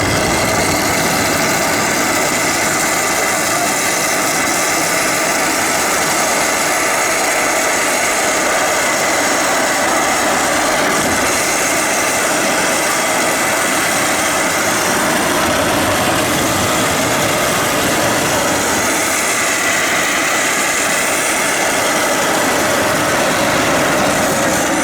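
Steady, loud engine and road noise of a car driving while it tows a couch on a rope.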